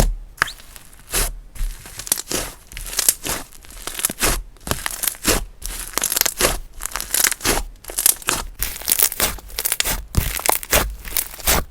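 Hands pressing and pulling slime, giving a dense, irregular run of crackles and sticky pops.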